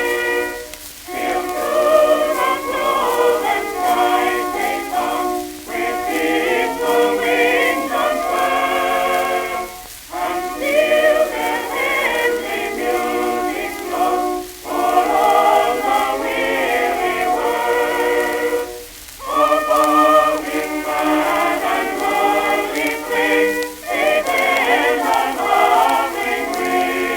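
Early shellac phonograph record of a choir singing in phrases of about four to five seconds with brief breaks between them, its thin, old-record tone lacking any highs, with faint surface crackle behind it.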